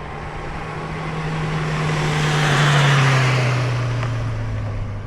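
A motor vehicle driving past. Its engine note and road noise grow louder to a peak about three seconds in, then fade as the engine note drops in pitch.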